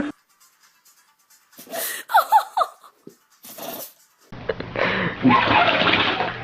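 A dog sneezing: a short sharp burst about three and a half seconds in, after a few quick squeaky sounds. A noisier stretch with voices and laughter follows.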